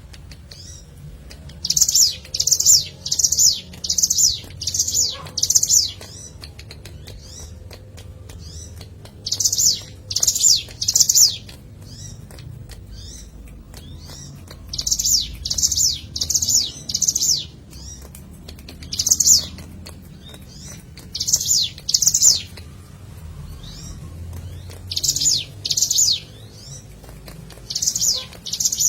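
Ciblek gunung (hill prinia) singing: loud, short, high chirping notes in quick runs of two to six, with pauses of a few seconds between runs.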